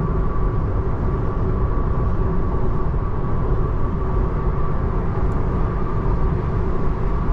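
Steady road noise inside the cabin of a 2024 Tesla Model 3 Long Range driving in the rain: an even hiss of tyres on wet pavement, with a faint steady hum.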